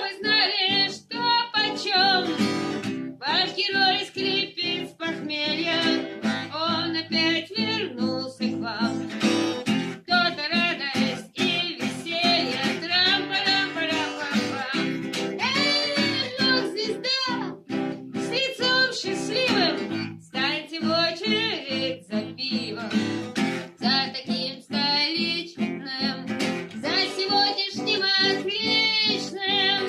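A song performed live: acoustic guitar strummed steadily, with a voice singing over it.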